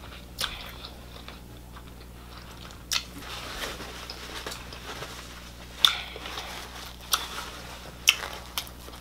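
A person chewing a mouthful of crab meat, wet mouth sounds broken by several sharp clicks.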